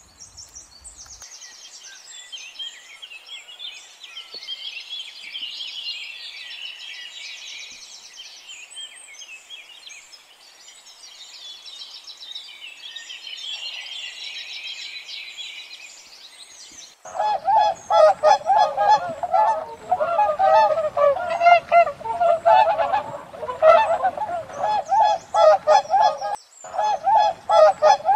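High, thin bird chirping for the first half. Then, about seventeen seconds in, geese start honking loudly, many calls in quick, overlapping succession.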